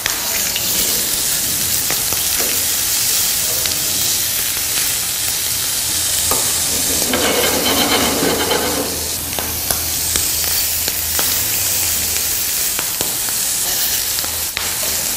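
Button mushroom skewers sizzling steadily in oil on a hot ridged grill pan, with a few light clicks as they are turned with tongs.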